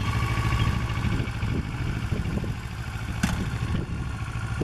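Kawasaki Ninja 650R's parallel-twin engine idling steadily, with little or no throttle. A brief sharp click about three seconds in.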